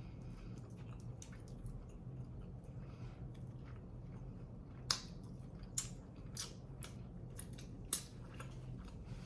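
A person chewing and biting tandoori chicken, with a few sharp mouth clicks and smacks in the second half over a steady low hum.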